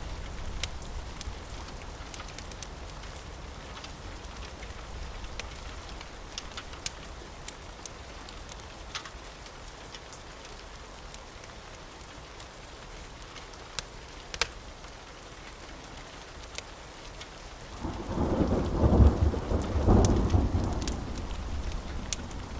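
Steady rain with scattered sharp crackles and pops from a fireplace fire, and a low rumble underneath. About 18 seconds in, a rolling peal of thunder swells up and lasts about three seconds, the loudest sound here.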